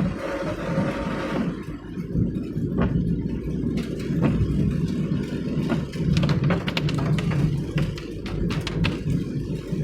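A car driving on a wet road, its engine and tyre noise making a steady low rumble. There is a hiss of water in the first second or so, and scattered sharp ticks in the second half.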